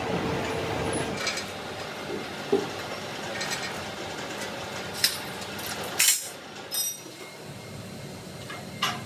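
Metal knocks and clinks over steady workshop noise: five or so separate hits, the loudest about six seconds in.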